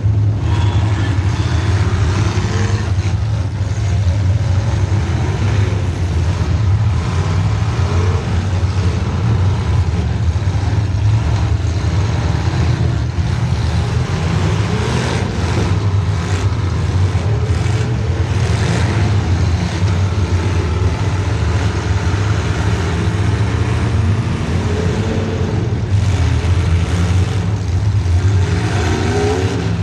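Demolition derby car's small-block Chevy V8 running loud with a steady low rumble, revving up and down throughout.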